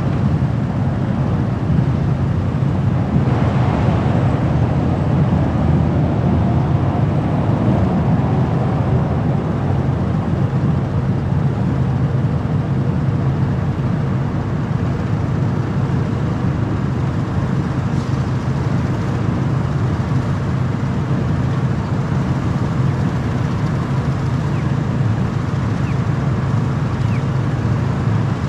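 Steady road and engine noise of a car driving, with a brief swell about three to five seconds in.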